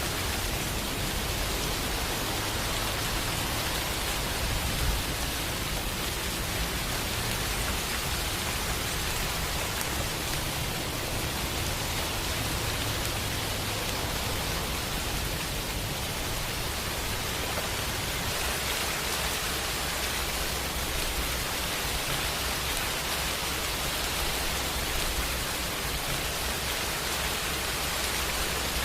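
Steady rainfall: a continuous, even hiss of rain with no breaks.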